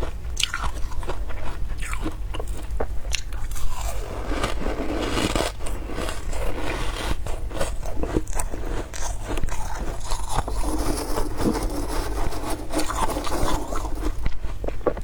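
Close-up biting and chewing of fluffy freezer frost: sharp crisp crunches for the first few seconds, then denser, continuous crunching from about four seconds in.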